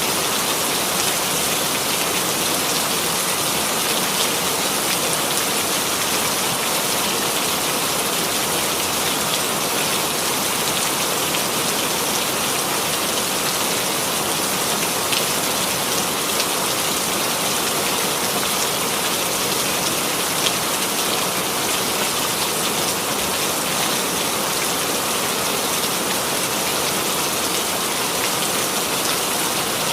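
Steady, heavy rainfall: a dense hiss of rain on a surface with scattered individual drops ticking through it.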